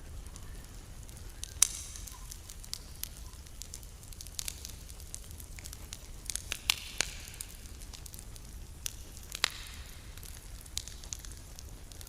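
Wood campfire crackling, with irregular sharp pops: a loud one about a second and a half in, a cluster around seven seconds, and another near nine and a half seconds.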